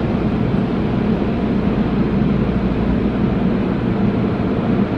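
Steady low rumbling noise of a car at a car wash.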